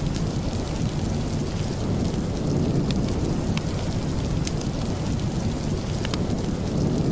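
Steady rain: an even rushing hiss over a deep low rumble, with a few sharp clicks scattered through the middle.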